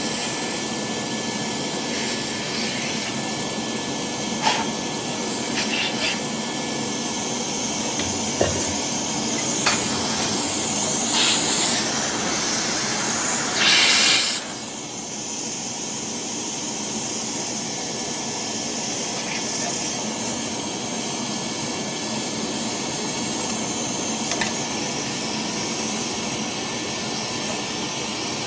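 Steady rushing machine noise with a few sharp knocks. A louder high hiss runs for about three seconds past the middle and cuts off suddenly.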